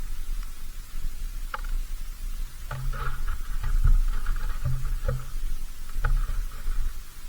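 Animals feeding at a bird feeder: scattered ticks and scratches of seed being picked and shuffled, over a low rumble.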